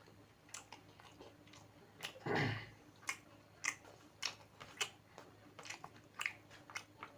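Close-miked chewing of a mouthful of food: wet mouth clicks and smacks at roughly two a second, with one louder, longer mouth sound about two seconds in.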